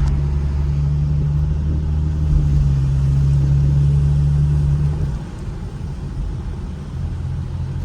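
Ford Mustang engine droning steadily under throttle, heard from inside the cabin, then easing off and quieter about five seconds in.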